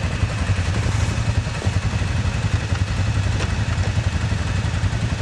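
ATV engine running at a low, steady throttle, heard from on board, with fast, even firing pulses and some clatter.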